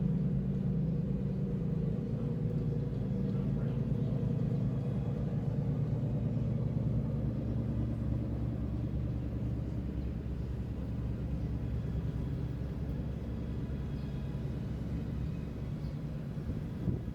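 Tour boat's engine running steadily: a low, even drone.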